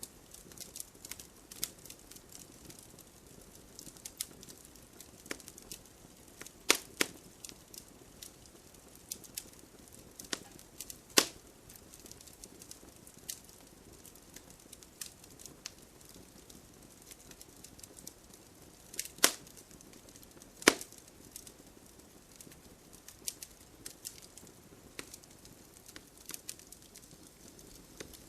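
Campfire of burning logs crackling: irregular sharp pops and snaps over a low steady hiss, with a few louder pops standing out.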